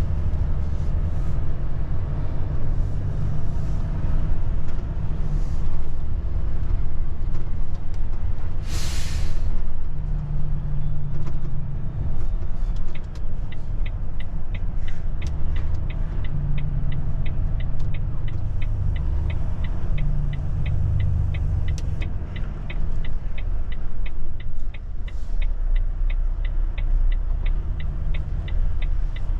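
Volvo truck's diesel engine running with a steady low rumble, heard from inside the cab. A short air-brake hiss comes about nine seconds in. From about halfway through, the turn-signal indicator ticks evenly, about three to four times a second.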